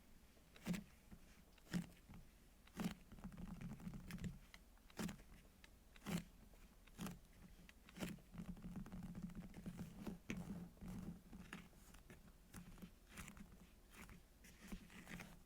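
Squishy toys handled close to the microphone: sharp taps roughly once a second, with two stretches of crinkly rustling and crackling.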